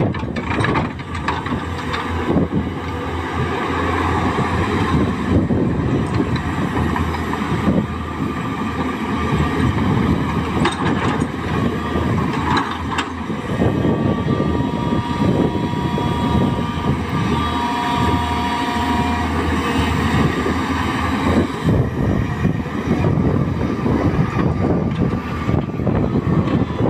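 Tata Hitachi EX200LC excavator working: its diesel engine runs under load with the hydraulics, and there is continuous clatter and rattle from the machine. A faint steady whine joins in about halfway through for several seconds.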